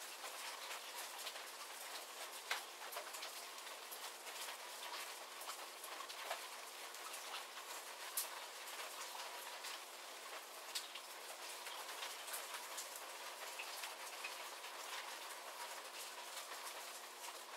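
Steady light rain falling, with individual drops pattering and ticking sharply on nearby surfaces; a couple of louder drip clicks stand out, one a few seconds in and one near the middle.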